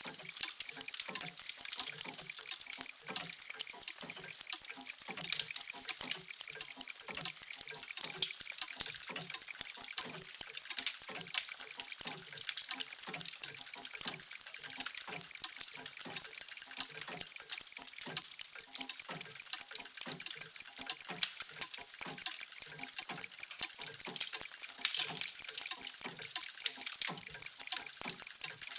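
Many mechanical clocks ticking at once: a dense, steady, overlapping clatter of sharp ticks with lower tocks mixed in.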